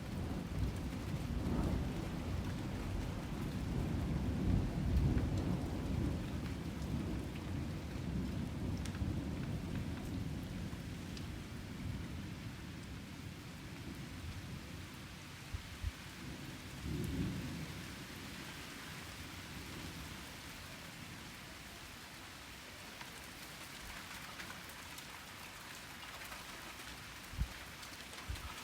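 Thunderstorm: a long roll of thunder rumbles through the first half, loudest a few seconds in, then dies away, with a shorter, fainter rumble a little later. Steady heavy rain hisses throughout, with a few sharp drip ticks near the end.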